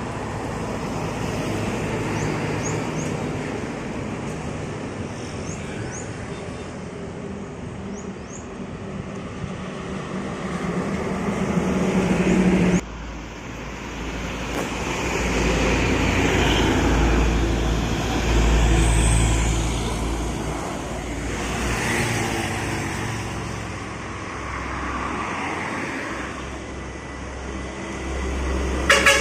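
Road traffic on a highway: motor vehicles running past, the sound swelling and fading as they go by. It breaks off abruptly about halfway through and picks up again at once.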